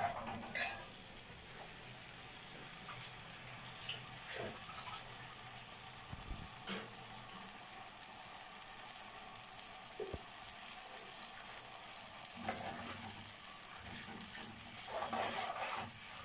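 Onion paste sizzling steadily in hot oil in an aluminium karahi, stirred with a metal ladle that clicks against the pan a few times.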